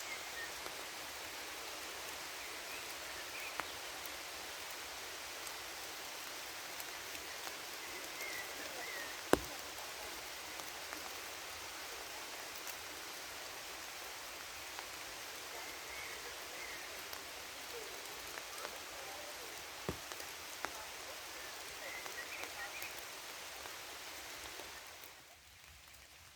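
Steady rain falling in a forest, an even hiss with now and then a single louder drop striking close by. Near the end the rain hiss drops away sharply.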